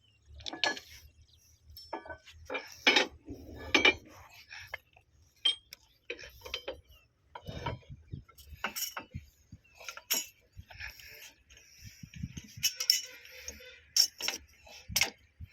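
Irregular sharp metallic clinks and knocks of hand tools and metal fittings being handled, as a ground connection is fitted to a railway point machine.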